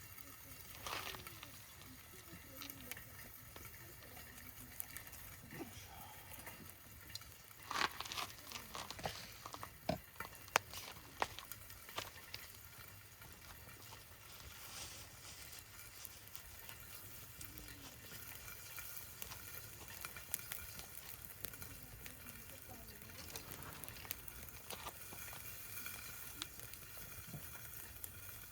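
Beef steak sizzling on a hot iron griddle plate over a campfire: a steady hiss with scattered pops and crackles, thickest between about eight and twelve seconds in.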